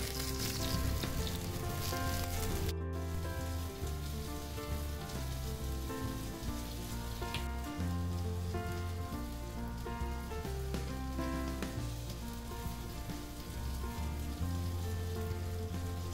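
Chicken pieces sizzling as they fry in oil in a frying pan, cutting off suddenly about three seconds in. Background music with a steady run of notes plays throughout.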